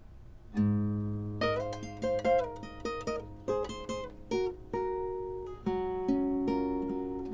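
Nylon-string acoustic guitar played fingerstyle as a song's introduction. It starts about half a second in with a low bass note, then a run of plucked notes and chords that each ring and fade.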